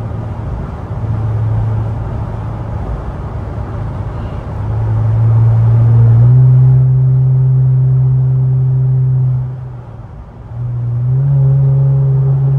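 Infiniti Q50's twin-turbo V6 with a lower downpipe, running on the highway with a loud, steady exhaust drone. It swells louder about halfway through, drops away briefly near the end as the throttle lifts, then comes back in.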